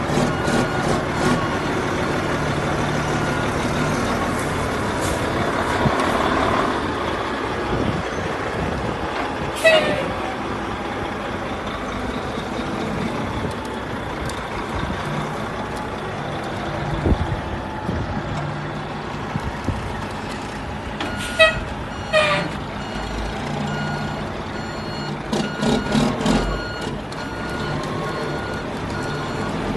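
Ford L9000 dump truck's diesel engine running steadily while working, with repeating reversing beeps and a few short sharp blasts of air, about ten seconds in and twice about twenty-one seconds in.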